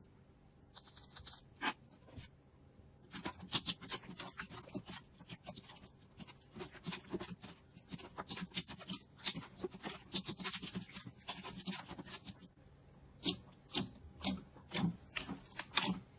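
Slime being squeezed and pressed by hand, giving off a dense run of sticky crackling clicks as air pockets pop, then a few louder separate pops near the end.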